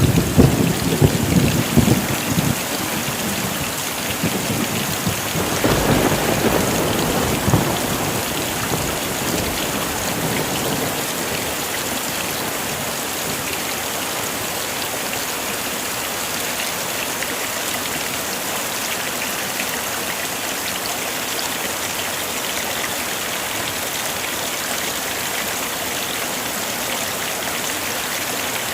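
Heavy rain falling in a steady hiss, with low thunder rumbling twice: at the start for about two seconds, and again about six seconds in.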